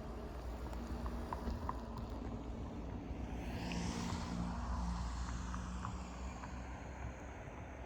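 A vehicle passes, its noise swelling and fading about four to five seconds in over a steady low rumble, while a few short, faint bird chirps sound now and then.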